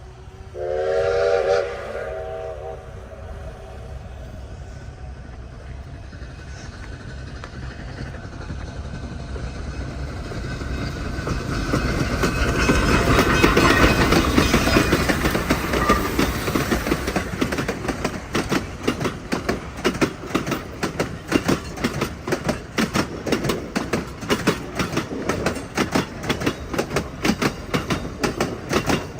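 A steam locomotive whistle sounds once, about a second long, then the double-headed Durango & Silverton narrow-gauge steam train approaches and passes, loudest about halfway through. After that comes a steady, rapid clickety-clack of the coaches' wheels over the rail joints.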